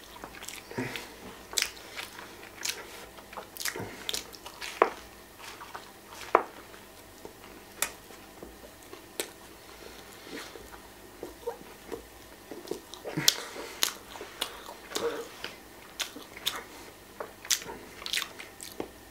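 A person biting into and chewing a grilled ham-and-cheese sandwich close to the microphone, with irregular short mouth clicks and smacks a few times a second.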